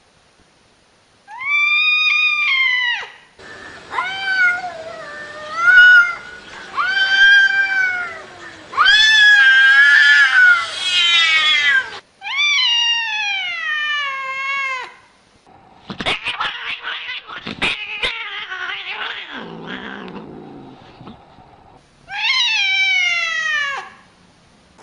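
Domestic cat yowling: a series of long, drawn-out calls, each rising then falling in pitch, with a stretch of noise and a few sharp clicks between the last two calls.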